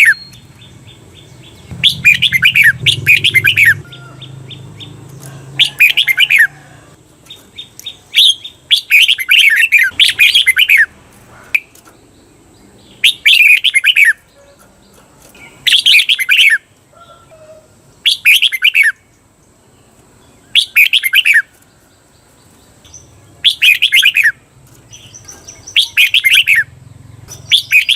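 Red-whiskered bulbul singing: short, loud warbled phrases repeated every two to three seconds, about a dozen in all, some given twice in quick succession.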